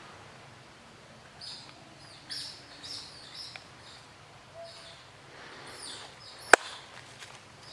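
Small birds chirping, a run of short high calls over faint outdoor background noise, with one sharp click near the end.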